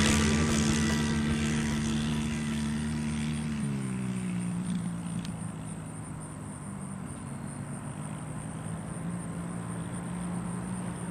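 Dirt bike engine riding away and fading into the distance. The engine note drops in pitch about four seconds in and grows steadily fainter.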